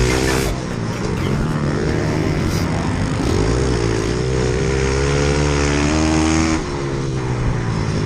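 Pit bike engines revving up and down, the engine note climbing and falling repeatedly and dropping off about two-thirds of the way through.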